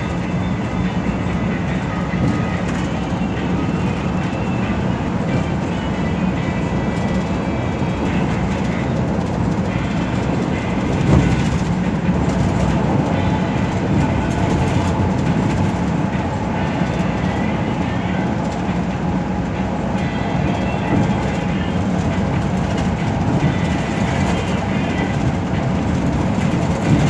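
Steady running noise inside an express bus's cabin at cruising speed: a low engine and road drone, with one brief thump about eleven seconds in.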